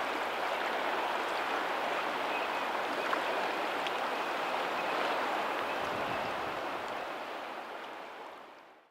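Shallow water lapping and trickling steadily over a pebbly lagoon shore where the tidal outflow runs. It fades out smoothly to silence over the last two seconds or so.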